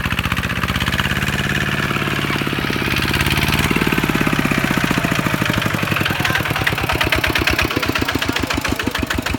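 Kubota tractor's diesel engine running with an even firing beat, changing pitch about four seconds in and slowing to a slower, more spaced beat after about six seconds.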